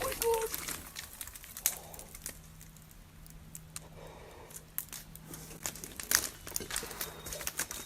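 Scattered rustling and crackling clicks over a faint steady low hum.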